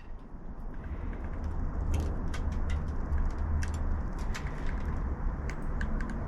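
Outdoor ambience at a bird feeder: many short, sharp ticks and chirps scattered over a steady low rumble.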